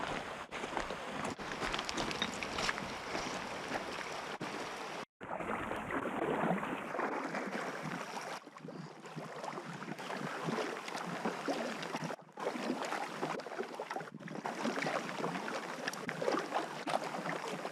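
Water rushing and splashing around a packraft as it is paddled down a small river, with scattered paddle splashes.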